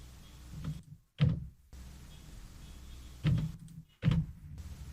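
Low steady rumble of car traffic picked up in the background of a voice recording, with sudden thuds about a second, three seconds and four seconds in. This is the unwanted background noise in the pauses between words that a noise gate is meant to remove.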